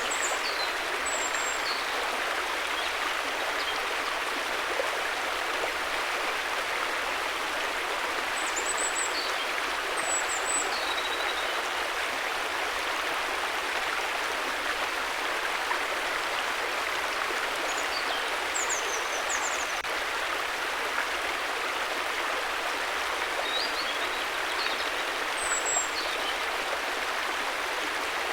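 River water flowing steadily, an even rushing sound, with a few faint short high chirps now and then.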